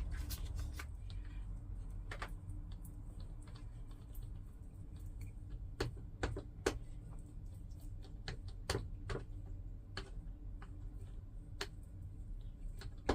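Scattered light clicks and taps from handling a glue roller applicator and small wooden boards during glue-up, irregular and a few seconds apart, over a steady low hum.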